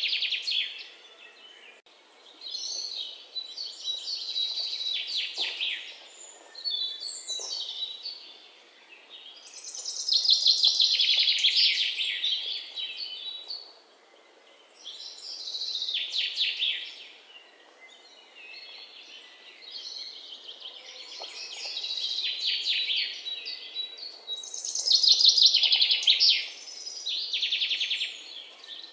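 Songbirds singing in bursts of rapid, trilled chirping phrases, each one to three seconds long, repeating every few seconds over a faint background hiss.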